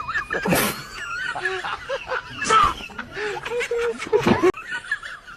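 Snickering, laugh-like voice sounds and short squeaky pitched calls, broken by a few sharp hits.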